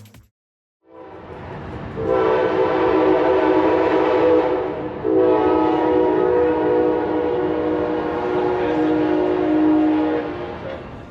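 Train horn sounding two long blasts, a steady chord of several tones, the second starting about five seconds in.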